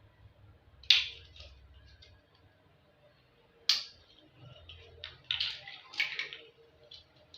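Toy building blocks clicking and knocking together as they are handled and fitted: several short, sharp clicks, with a quick cluster of them near the end.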